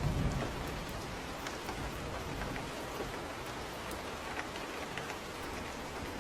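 Steady rain falling, with scattered light ticks of drops. A low rumble of thunder fades out in the first half second.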